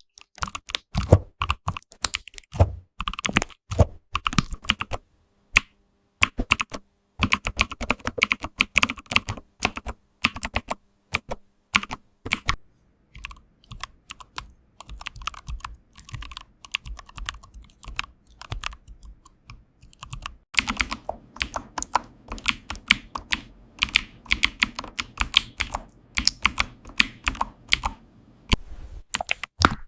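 Computer keyboard typing: rapid key clicks in runs. The clicks thin out and soften through the middle, then pick up into a dense, fast run for the last third.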